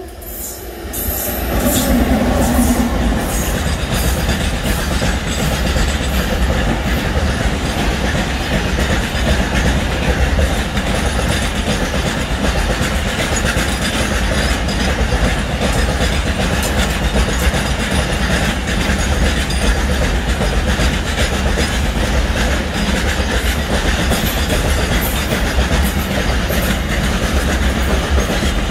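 Container freight train passing close by: its wagons run past in a loud, steady rumble, the wheels clacking regularly over the rail joints. The sound builds up over the first couple of seconds as the train arrives.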